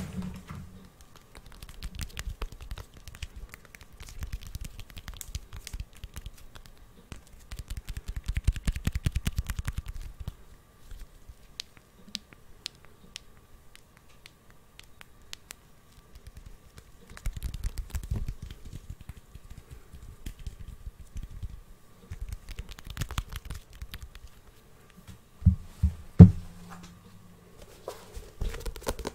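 Close-miked ASMR tapping and scratching on objects: rapid clusters of light clicks and crackles, with two louder knocks near the end.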